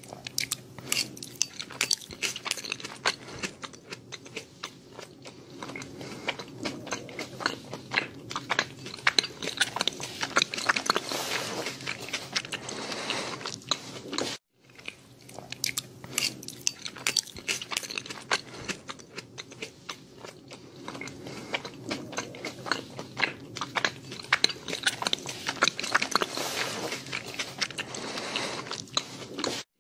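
Close-up chewing and biting sounds of eating: a dense run of wet crackles and clicks. It cuts out for a moment about halfway, then the same chewing carries on.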